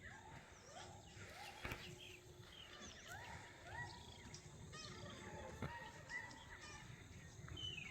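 Faint bird calls: many short rising chirps repeating every half second or so over a low background hiss, with a few sharp clicks.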